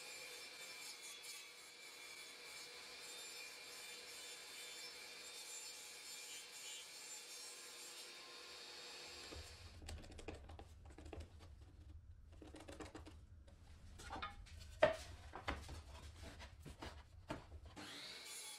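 Faint steady hiss, then faint woodworking handling sounds: rubbing on wood with a low rumble and scattered light clicks and knocks, one sharper knock near the middle of the second half.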